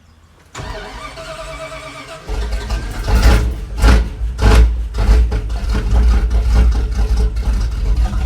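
Mopar 360 V8 in an old carbureted Dodge truck, cold-started after sitting for a week, heard from inside the cab. The starter cranks for under two seconds, the engine catches, is revved three times in quick succession, then keeps running steadily. It fires without the gas pedal held to the floor.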